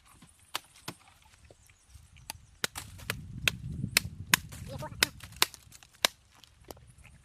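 Footsteps through fallen debris, with about fifteen sharp, irregular snaps and cracks of twigs breaking, over a low rustling rumble in the middle.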